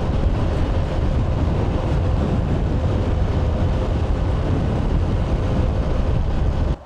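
Motorcycle riding along the road: the engine running steadily under heavy wind rush on the microphone, cutting off abruptly near the end.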